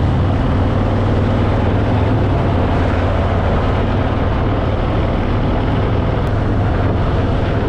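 Harley-Davidson Fat Boy's V-twin engine running at a steady speed while riding: a constant low hum under a steady rush of wind and road noise.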